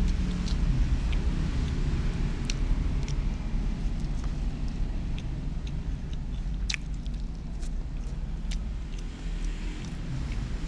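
Mouth sounds of eating, scattered small wet clicks of chewing, over a steady low rumble.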